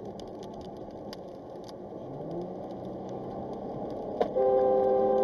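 Steady road and engine noise inside a moving vehicle. About four seconds in, a vehicle horn starts: one loud, steady, long honk.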